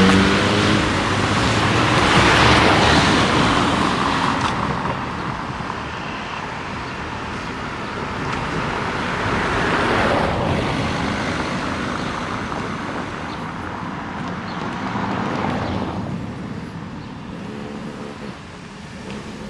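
Street traffic: cars passing one after another, each swelling and fading in a rush of tyre and engine noise, about three passes in all. A vehicle's engine hum sits under it at the start and again near the end.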